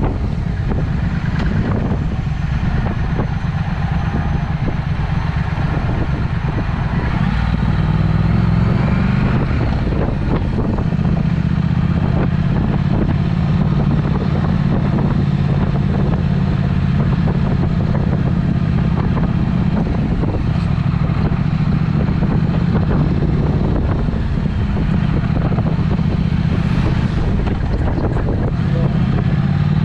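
Triumph Speed Twin's parallel-twin engine breathing through a Vance & Hines aftermarket exhaust, running steadily under way at a held cruising speed. The note shifts slightly a few times and climbs briefly near the end.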